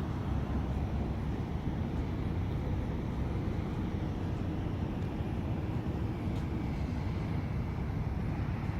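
Steady low rumble of outdoor background noise, even throughout with no distinct events, typical of traffic or idling vehicles around a truck stop, with some wind on the microphone.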